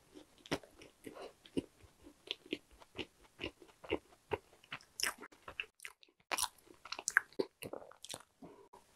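Close-up chewing and biting of a pink-coated strawberry pie: short crisp crunches and moist chewing about twice a second, with a few louder crunches in the second half.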